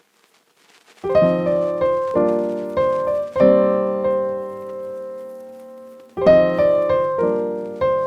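Background piano music: chords begin about a second in and ring out, with one long held chord in the middle before a new phrase starts.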